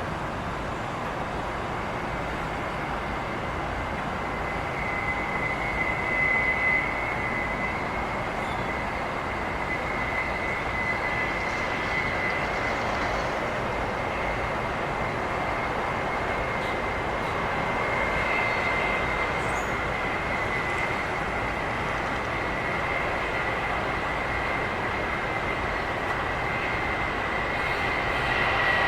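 Jet airliner engines running, a steady rushing noise with a high whine, growing louder near the end.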